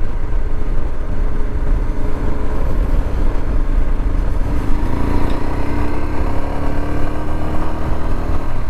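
Royal Enfield Himalayan's single-cylinder engine running under way, with wind rumbling on a bare action-camera microphone. About halfway through, the engine note rises steadily as the bike accelerates.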